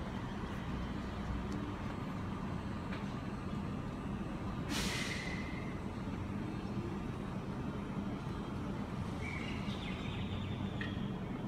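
Sydney Trains double-deck electric train moving past along the platform with a steady low hum. A short sharp hiss of released air comes about five seconds in, and brief high tones near the end.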